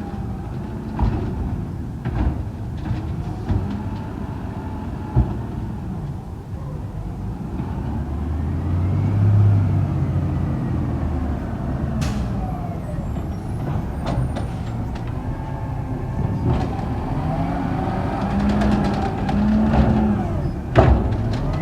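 Garbage truck working on collection: its diesel engine revs up and down several times, with a few sharp knocks and clanks.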